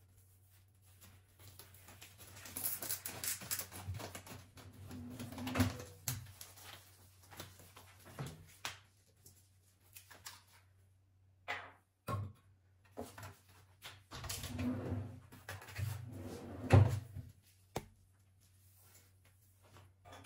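Household handling sounds: two stretches of rustling and clatter with scattered clicks and knocks, the second ending in a sharp knock, with quieter pauses between.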